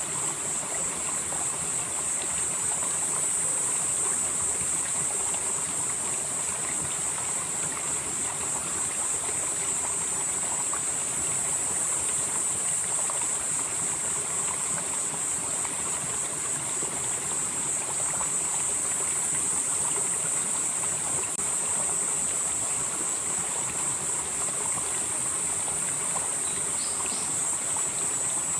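Valley stream flowing steadily over rocks, an even rush of water, with a steady high-pitched insect chorus over it.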